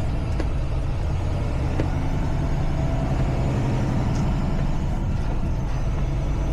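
Semi truck's diesel engine running steadily at low speed, a constant low drone.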